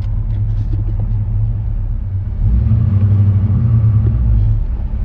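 1965 Pontiac GTO's V8 engine running low and steady, getting louder about two and a half seconds in as the revs come up under a high-engaging clutch.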